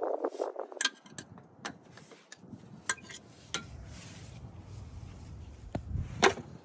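Scattered metallic clinks and knocks of hand tools against metal, about six separate sharp strikes, made while working on the starter in the engine bay.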